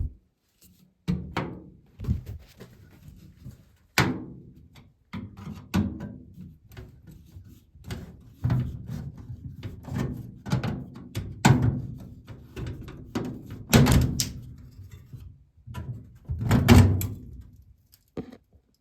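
Screws being taken out of a furnace's sheet-metal coil cabinet and the panel handled: a series of knocks and thunks against the metal, with rattling and scraping between them.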